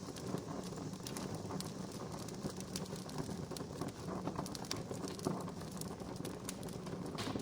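Wood campfire crackling: many irregular sharp pops and snaps over a steady low hiss.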